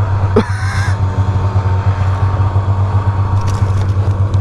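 Snowmobile two-stroke engine running steadily with an even, low pulsing note. A brief higher-pitched sound cuts in about half a second in.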